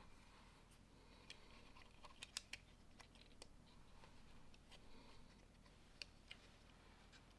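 Faint, scattered clicks of plastic Lego pieces being handled and snapped together, a few small clicks at a time over near silence.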